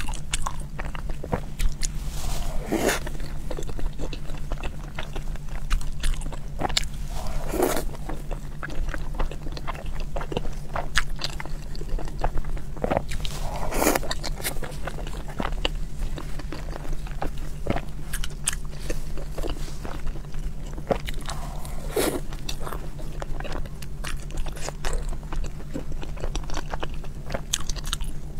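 Close-miked mouth sounds of eating soft dumplings in chili oil: wet chewing and lip smacks, with several longer, louder wet sounds a few seconds apart. A steady low hum lies underneath.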